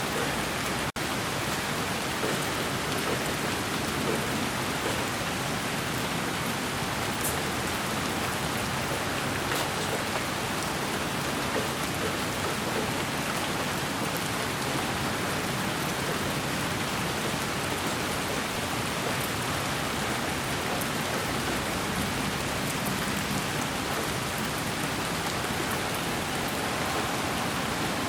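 Steady, even white-noise hiss of a baby sleep-aid track, broken by a momentary dropout about a second in.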